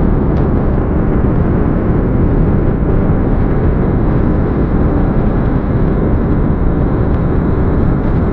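Steady road and wind noise of an Audi A4 45 TFSI quattro cruising at highway speed, a constant low rush without any change in pace.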